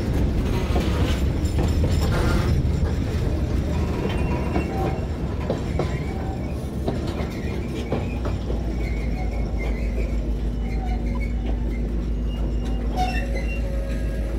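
Freight train of bulkhead flatcars loaded with steel rail rolling past close by: a steady rumble of steel wheels on the track with a few faint clicks.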